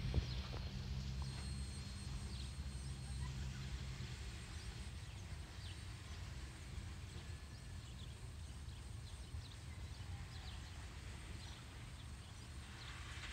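Coal train's hopper cars rolling along the track, a steady low rumble that eases off about four seconds in as the train moves away.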